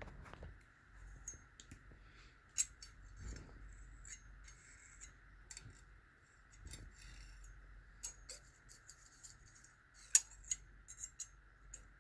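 Scattered light metallic clicks and taps of small metal hand tools being handled on an aluminium cylinder head, over a faint steady high hum. Two sharper clicks stand out, about two and a half seconds in and again about ten seconds in.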